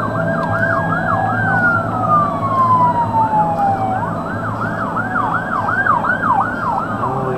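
Emergency vehicle siren alternating between a fast yelp, about three sweeps a second, and a slow falling wail, with a low steady hum underneath.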